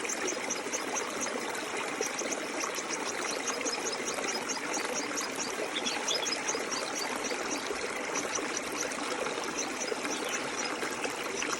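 Stream flowing steadily, an even rushing and trickling of water. Over it, a high, rapid chirp repeats about six times a second in runs with short breaks.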